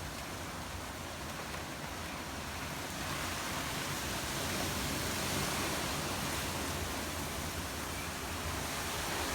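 Hurricane wind gusting, a steady rushing noise that builds about three seconds in and eases slightly near the end.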